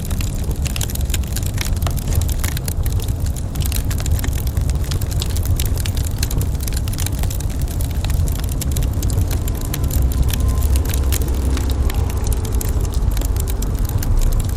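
Wood fire crackling in a fireplace, with many small sharp pops and snaps over a steady low rumble.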